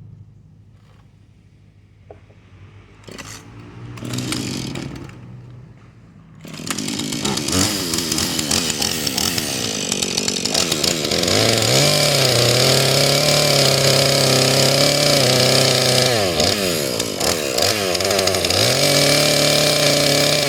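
McCulloch Pro Mac two-stroke chainsaw starting up about six seconds in, then running loud at high revs, its pitch dropping and climbing again near the end.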